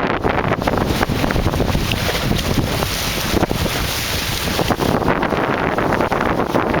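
Strong wind blowing against the microphone, a loud, unsteady rush with constant small gusts.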